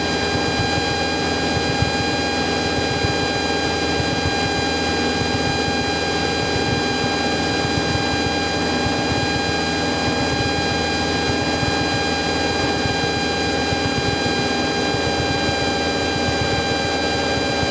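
Cessna 172's engine and propeller droning steadily in cruise, heard in the cabin, with a steady whine held on one pitch.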